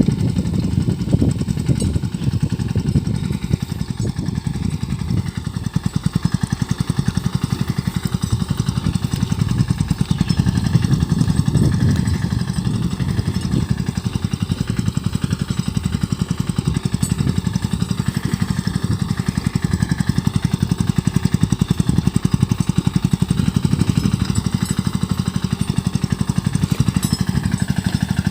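Sanedo three-wheeled mini tractor's engine running steadily with a rapid, even beat while the tractor sows mustard.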